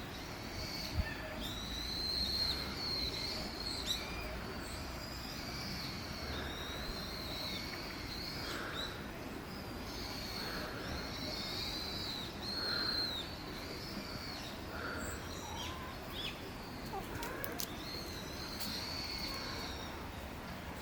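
Repeated short, high-pitched chirping calls from an animal or bird over a steady low background.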